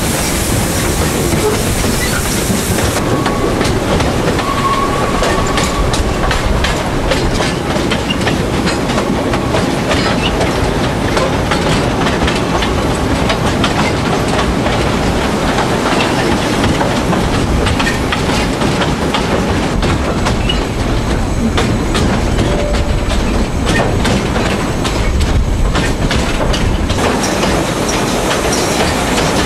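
Narrow-gauge (760 mm) steam-hauled forest train running along the track, heard from an open-sided carriage: steady rumble of wheels on rail with rapid clicking over the rail joints. A short faint wheel squeal comes a few seconds in.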